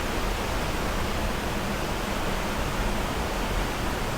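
Steady rush of falling water from a waterfall, an even hiss with no breaks or changes.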